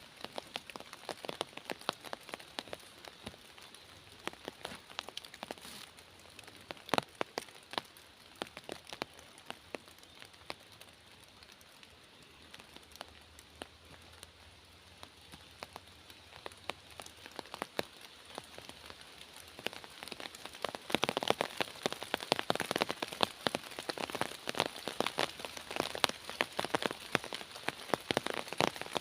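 Rain falling in a forest: individual drops pattering and ticking on leaves and surfaces over a soft steady hiss. The drops are sparse through the middle and grow denser and louder about three-quarters of the way through.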